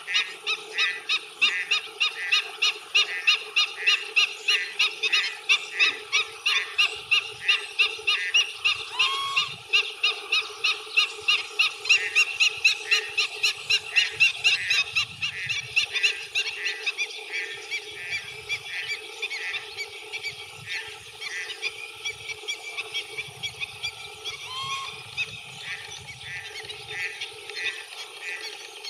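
A wading bird calling a long, steady series of sharp notes, two or three a second, loud at first and growing fainter after about halfway.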